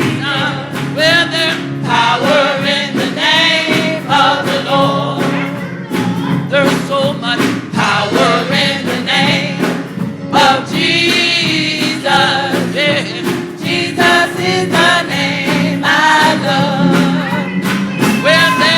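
Gospel music: a choir singing over organ or keyboard and drums, with a steady beat.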